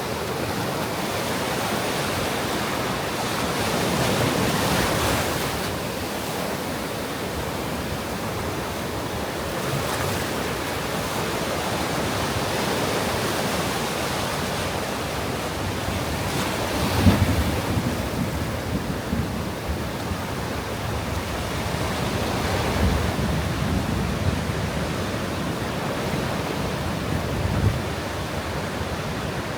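Sea waves surging and breaking on a sandy beach in a steady wash of surf, with wind gusts buffeting the microphone in low rumbles, the strongest a little over halfway through.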